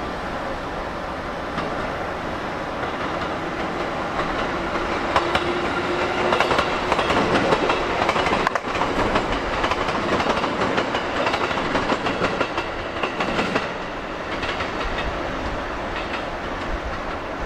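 Electric commuter train running past on the platform track, its wheels clacking over the rail joints. It grows louder about four seconds in and eases off near the end.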